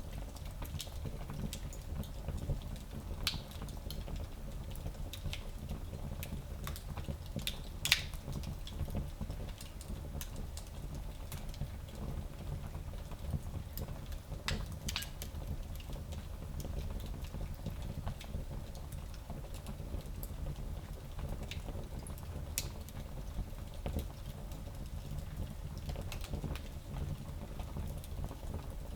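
Fire in a small fireplace crackling, with scattered sharp pops over a steady low rumble; the loudest pop comes about eight seconds in.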